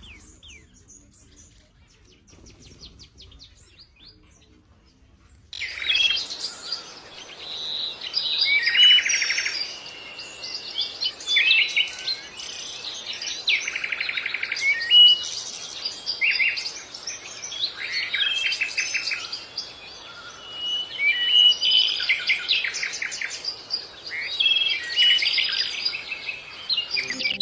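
Birdsong: chirps, fast trills and short whistled notes in quick succession over a steady hiss, starting about five seconds in after a faint opening.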